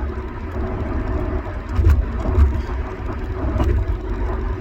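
Steady low rumble of vehicle noise, swelling briefly about two seconds in.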